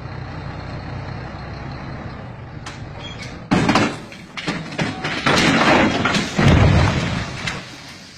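Heavy truck running with a steady low rumble, then loud noisy surges from about three and a half seconds in, lasting around four seconds before dying down.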